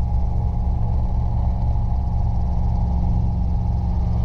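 Robinson R22 helicopter's engine and rotors droning steadily in the cabin, a constant low hum that holds the same pitch and loudness throughout.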